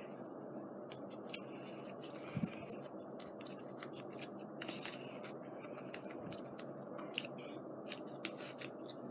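Paper and craft tools being handled at a worktable: a scattering of small, irregular clicks and scratches over a steady background hiss.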